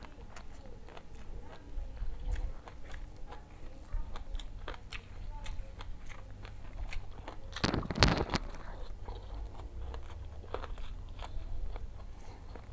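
Close-up eating sounds of jengkol balado and rice eaten by hand: wet chewing with many small mouth clicks and smacks, and one louder, longer burst of noise about eight seconds in.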